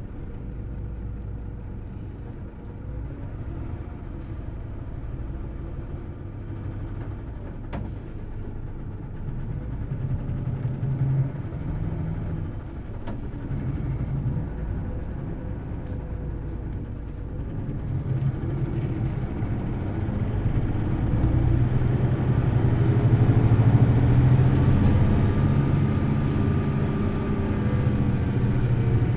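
Hino Blue Ribbon City Hybrid bus running, heard from inside: the engine hums steadily at first, then grows louder as the bus accelerates in the second half, with a high whine that rises in pitch and then falls away near the end. A few brief clicks or hisses sound early on.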